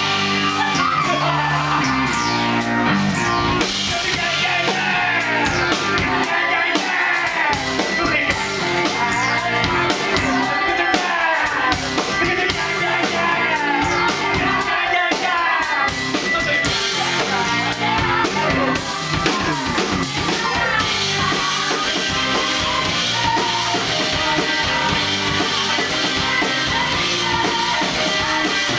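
Live band music with drum kit and guitar in a rock style, with voices singing over it.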